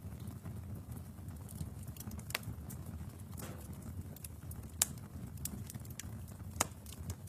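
Wood fire burning in a fireplace: a low steady rumble of flames with scattered sharp crackles and pops. The loudest pops come about two and a half, five and six and a half seconds in.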